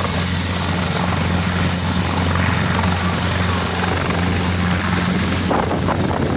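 Landing helicopter's rotor and engine running steadily: a constant low drone with a thin high whine above it.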